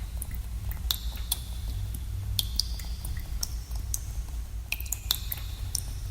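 Water drops falling at irregular intervals in a cave, each a sharp plink, several of them leaving a short high-pitched ring as they hit pooled water. A steady low rumble runs underneath.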